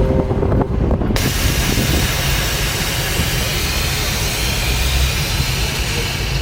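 A car engine's low rumble under a loud, steady hiss that starts about a second in.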